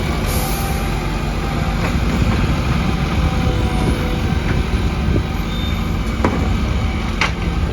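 Garbage truck's diesel engine running steadily, with a short hiss of air about half a second in and a few sharp knocks later on.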